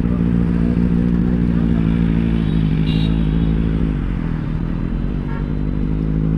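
Sport motorcycle engine running at a steady cruising speed while riding, with the engine note easing slightly about four seconds in and picking up again.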